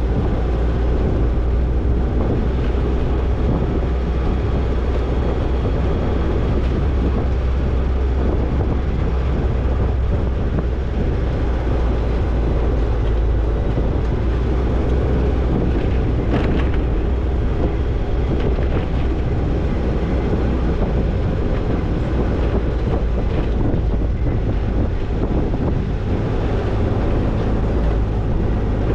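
Toyota Tercel 4WD wagon driving on a dirt trail: steady engine and drivetrain noise with rattling over the rough ground. There is a brief clunk about sixteen seconds in, and the engine note rises some seconds later.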